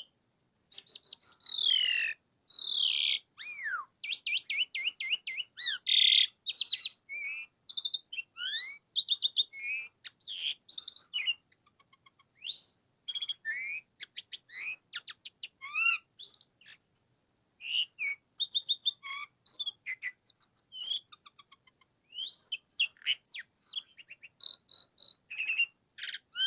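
Javan pied myna (jalak suren) singing in full, vigorous song: a long, varied run of whistles, rising and falling glides, rapid trills and harsh chattering notes, broken by short pauses.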